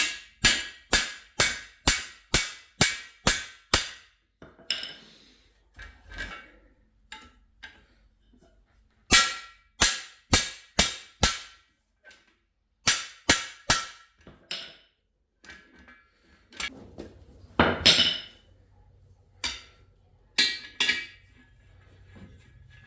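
Hammer striking the end of a cam bearing tool's driver rod, knocking worn cam bearings out of an LS6 engine block: sharp metallic blows with a ringing tone, in quick runs of several strikes with pauses between.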